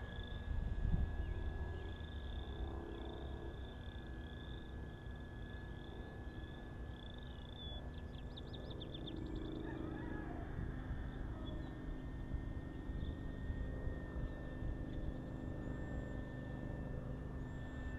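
A bird chirping over and over, a dozen or so short chirps, then a quick trill about eight seconds in. Under it runs the steady thin whine of the distant Carbon-Z Cessna 150's electric motor, with a low wind rumble.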